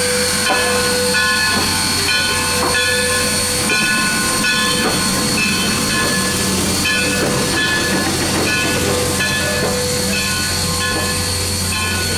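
Moving train: steel wheels rolling on the rails, a steady running noise with held ringing tones and scattered clicks.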